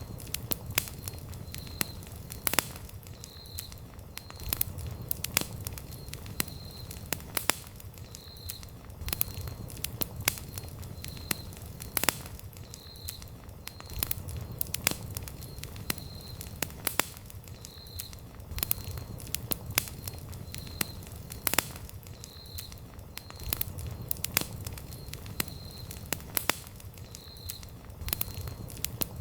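Wood campfire burning, with frequent sharp crackles and pops from the wood over a low, steady rumble of the flames.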